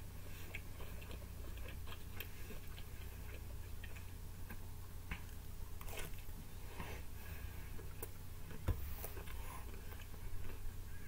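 A person chewing and biting pizza, with irregular wet mouth clicks and smacks over a steady low hum; the sharpest click comes just before the end.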